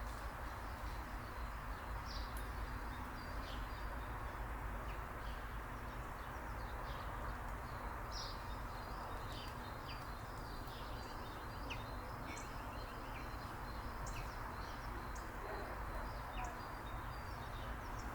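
Small birds chirping: many short, high calls scattered throughout, over a steady background hiss and low rumble.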